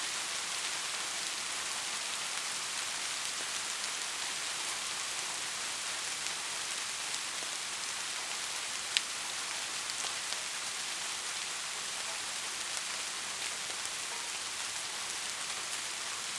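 Steady rain falling, an even hiss with scattered ticks of individual drops. One sharper drop tick stands out about nine seconds in.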